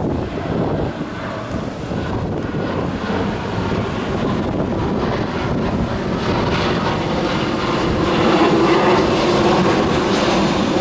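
Low-flying US military aircraft passing overhead, its engine noise steadily growing louder and loudest about eight or nine seconds in.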